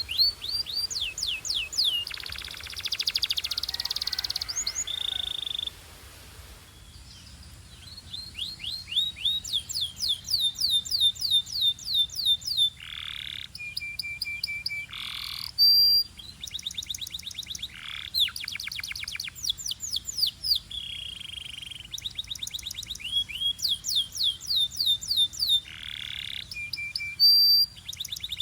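Belgian canary singing a long, varied song. It runs fast trills of repeated down-slurred notes, a buzzy rolling passage and a few short steady whistles, with a brief lull about six seconds in.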